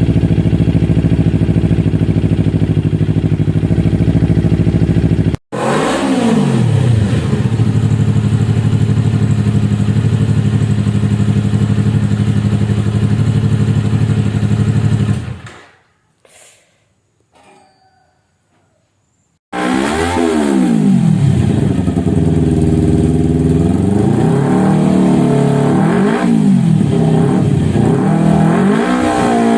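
Motorcycle exhaust through an aftermarket Akrapovic Hexa carbon slip-on silencer: the engine idles, is revved once and held at a steady fast idle, then the sound dies away into a few seconds of near silence. After that it returns with a series of quick throttle blips, about five revs rising and falling.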